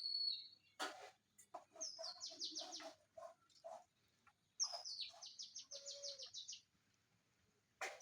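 A bird singing: two rapid runs of high, falling chirps a couple of seconds apart, with a short sharp noise about a second in and another near the end.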